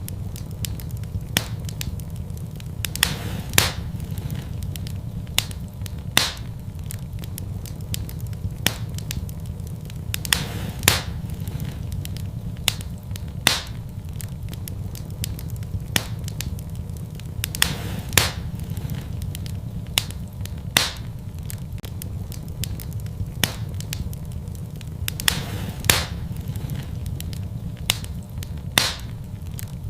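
Wood fire burning in a fireplace: a steady low rumble with irregular sharp crackles and pops, a few of them louder.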